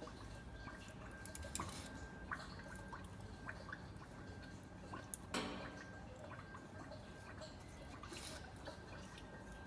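Engine oil draining and dripping into a drain pan: a faint trickle with scattered drips, and a sharper click about five seconds in.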